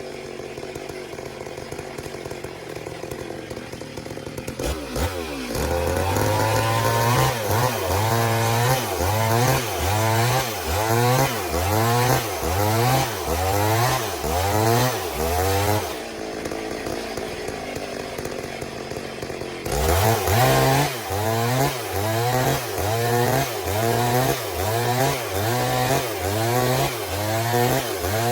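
Chainsaw ripping lengthwise through a log, its engine speed dipping under load and picking up again about once a second. The cutting starts about four seconds in and eases for a few seconds past the middle before resuming.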